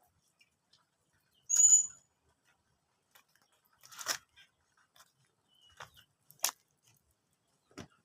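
Caged white-rumped shama giving one short high chirp about a second and a half in. Scattered sharp clicks and flutters follow a few seconds apart.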